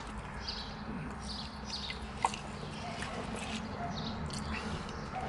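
Close-up chewing of a fried chicken sandwich: an irregular run of short wet mouth clicks and smacks, with one sharper click about two seconds in, over a low steady hum.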